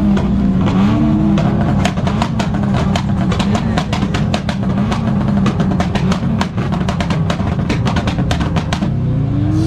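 Tuned car's exhaust popping and crackling in a fast, irregular string of sharp bangs over the engine running, starting about two seconds in and stopping just before the end.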